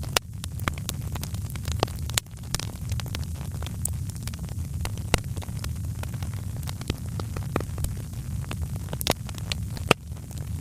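Fire crackling in a fireplace: irregular sharp pops and snaps over a steady low rumble, with one of the louder pops near the end.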